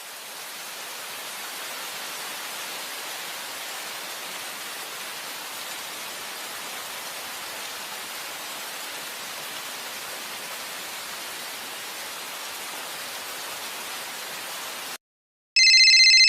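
Steady static hiss, like white noise, fading in at the start and cutting off abruptly after about fifteen seconds. After a brief gap a much louder electronic beep with several pitched tones begins near the end.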